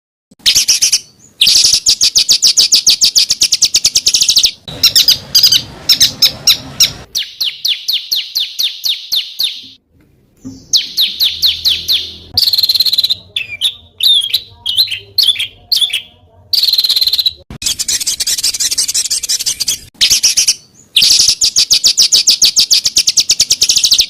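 Small songbirds giving harsh, rapid-fire song phrases: high-pitched strings of sharp notes repeated many times a second, in several stretches that start and stop abruptly, as edited together in a masteran recording for tutoring captive songbirds.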